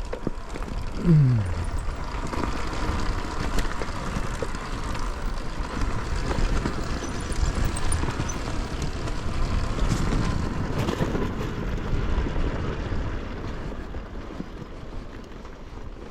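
Dirt bike engine running, with revs dropping sharply about a second in, then a steady uneven drone.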